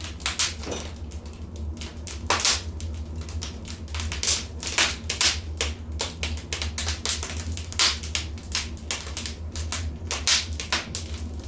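Wood fire crackling in a fireplace: a steady run of irregular pops and snaps over a low, steady rumble.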